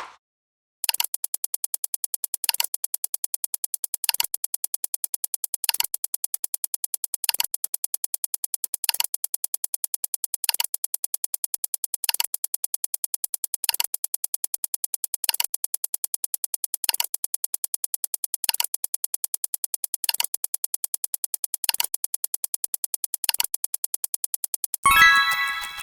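Rapid, even string of short synthesized blips, about ten a second, one sound effect for each number in the count, with a louder blip about every one and a half seconds. Near the end a different, brighter chiming tone comes in.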